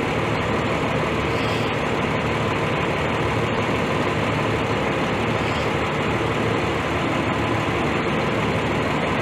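A vehicle engine idling steadily, an even, unchanging running noise with a low hum.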